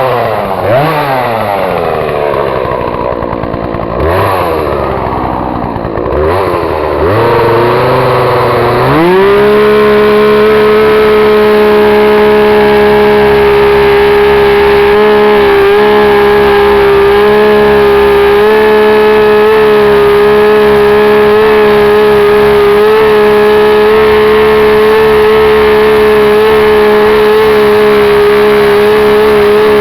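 Chainsaw carving into a large trident maple trunk. For about the first nine seconds the engine speed rises and falls, then it holds at a steady high pitch, at full throttle, for the rest of the time.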